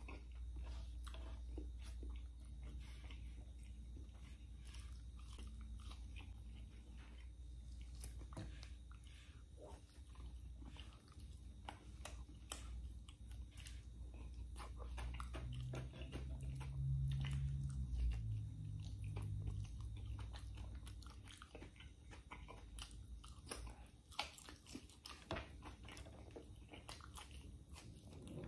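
Close-up mouth sounds of a man eating pork adobo, egg and fried tofu by hand: wet chewing, lip smacks and many small clicks throughout.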